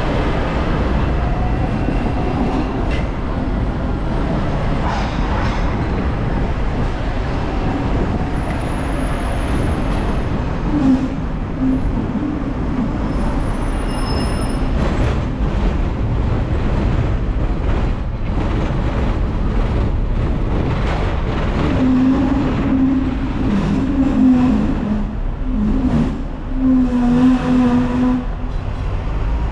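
Hong Kong tram running on its street tracks: a steady rumble with scattered clunks, and a humming tone that comes and goes in the last third.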